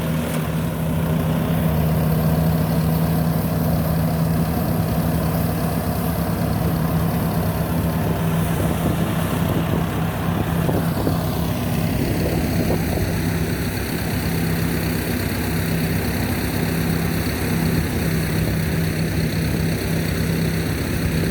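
Rice combine harvester's diesel engine running steadily with a constant hum while harvesting. The higher machinery sound shifts about halfway through.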